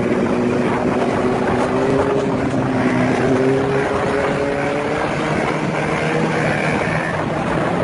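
Motor vehicle engine running at a steady pace under a wash of wind and road noise, its pitch climbing slowly.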